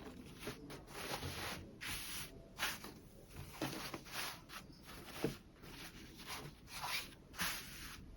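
Cloth being handled, rustling in irregular short swishes, with a few light clicks in between.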